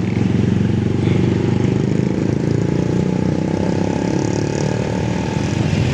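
A truck engine running steadily and loudly, a low, even drone with fine regular firing pulses.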